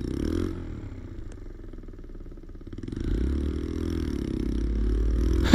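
Motorcycle engine running as the bike is ridden, low and even at first, then pulling harder and louder from about three seconds in as it accelerates.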